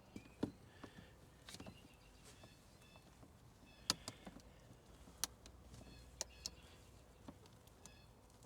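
Scattered light clicks and taps of hands handling PVC pipe and fittings, with a sharper click about four seconds in and another about five seconds in. A few faint short high chirps come in between.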